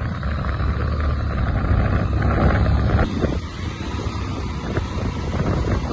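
Wind buffeting the microphone over a low engine rumble.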